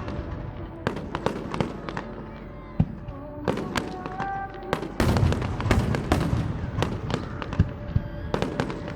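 Aerial fireworks bursting in rapid succession, many sharp bangs over a continuous rumble, thickening into a dense barrage about halfway through.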